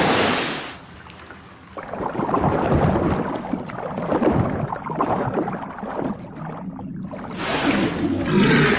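Water splashing and churning as a polar bear and a walrus struggle in the sea, with deep animal grunts near the end.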